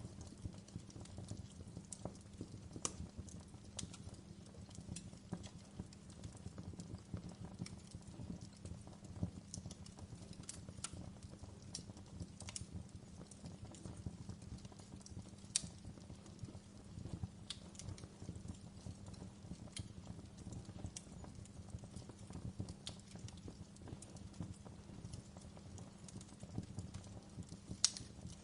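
Wood fire in a fireplace crackling: irregular sharp pops and snaps over a steady low rumble, with a louder pop near the end.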